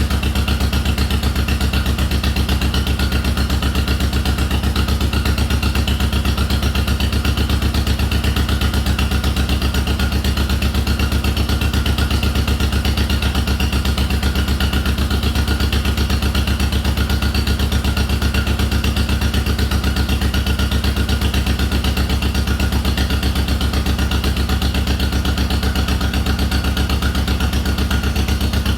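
The two-cylinder engine of a 1952 John Deere MT tractor running steadily with an even, rapid pulse, its fuel-line and shut-off leak repaired.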